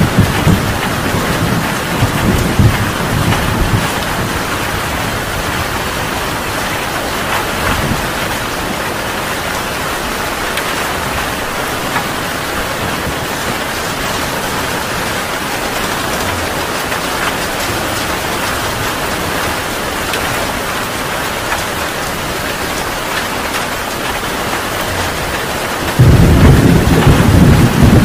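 Heavy rain pouring steadily, with thunder rumbling in the first few seconds and a loud, sudden thunderclap rumble breaking in near the end.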